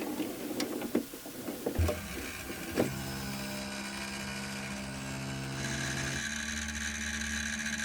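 A few sharp clicks and knocks, then a machine's motor running with steady tones that jump to new pitches a few times.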